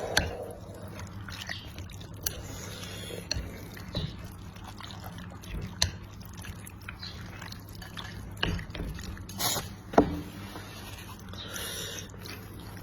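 Close-up eating of a bowl of Henan braised noodles: wet slurping and chewing, with scattered sharp clicks and short bursts.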